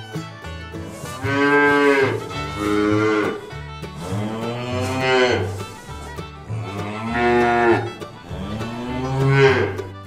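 Calves bawling: about five drawn-out moos, each rising and then falling in pitch, over quiet background fiddle music.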